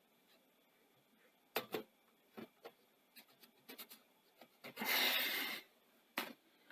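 Small clicks and taps of parts being handled on a Betamax video recorder deck during cleaning and reassembly, with a short hissing rub about five seconds in.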